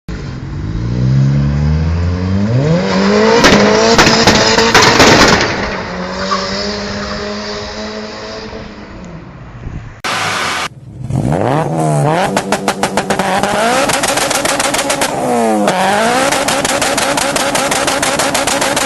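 Car exhaust revving up and falling back, with rapid popping and crackling as the revs drop. About halfway through, a second exhaust takes over and is blipped several times in quick succession, crackling almost continuously.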